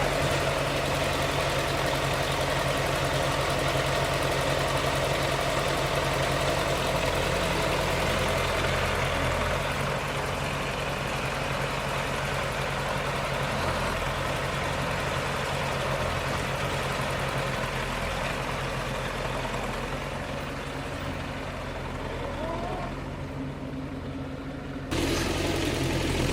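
Tractor engine running steadily at an even speed, slightly quieter partway through, with an abrupt change in the sound near the end.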